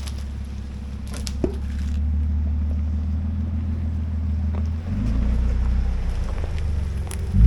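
Vehicle engine running under way: a steady low drone that drops in pitch about five seconds in and swells louder near the end.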